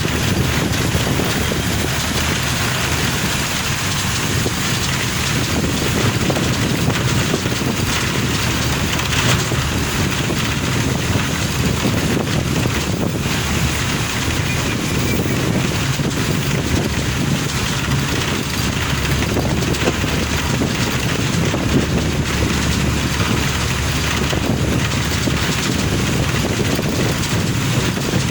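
Steady road and wind noise of a car driving on a rain-wet road, with a constant rumble and hiss.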